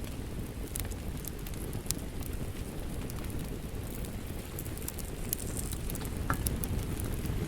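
Fireplace fire burning steadily: a low rumble of flames with scattered sharp crackles and pops.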